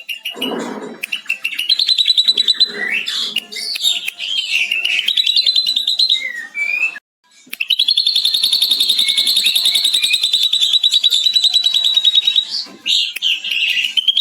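Ashy drongo singing rapid, varied chatter full of mimicry, with a long, fast lovebird-style 'ngekek' trill. After a brief pause about seven seconds in, it gives one unbroken rattle of quick notes lasting about five seconds.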